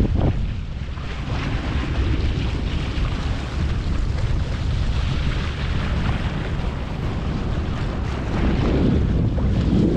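Wind buffeting the microphone over the rush of water along the hull of a sailboat under way, with a brief louder blast right at the start.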